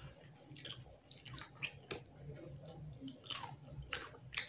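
Close-up wet chewing and lip smacks of a mouthful of tilapia fish curry and rice, with fingers squishing rice and curry in a steel plate. The clicks and smacks come irregularly, a few a second.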